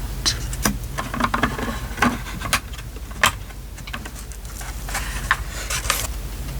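Paper and craft pieces handled on a desk while decorating a journal: irregular crinkles, taps and small clicks, a few sharper ones, over a steady low hum.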